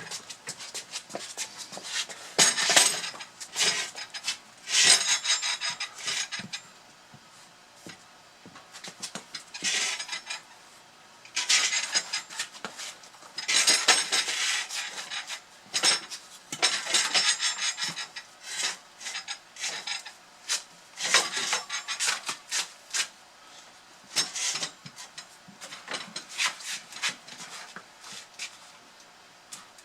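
Pieces of firewood sliding down a culvert-pipe chute one after another: repeated scraping and rattling bursts of a second or two each, with sharp knocks as pieces strike and land.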